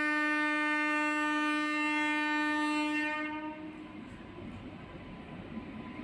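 Indian Railways train horn sounding one long steady blast that cuts off about three seconds in, followed by the rumble of the train running in.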